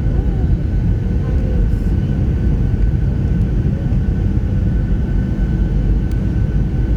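Airliner cabin noise heard from a passenger seat: a steady deep rumble with a constant engine hum and a higher steady whine above it.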